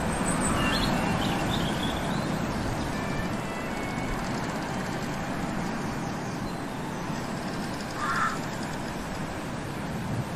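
Steady outdoor background noise with a few short bird chirps about a second in and a single short, louder call about eight seconds in.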